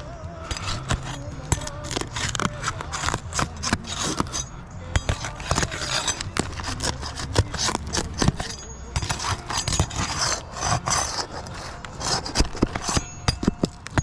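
Roofing tools scraping and prying at roof shingles, with many irregular sharp clicks and knocks of metal on shingle and nails as the shingles are worked loose and nails pulled.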